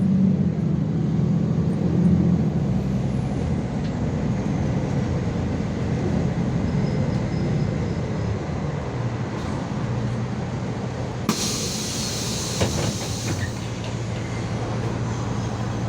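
City bus running while riding, its engine hum easing lower after the first few seconds. About eleven seconds in there is a sharp hiss of compressed air lasting about two seconds, followed by a couple of short knocks.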